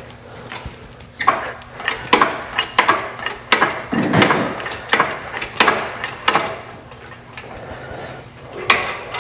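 Metal objects clanking and clinking against each other in a quick irregular run of sharp knocks lasting several seconds, then a pause and one more clank near the end.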